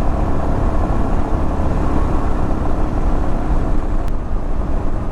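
Royal Enfield Himalayan adventure motorcycle engine running steadily under way, mixed with road noise, with a brief tick about four seconds in.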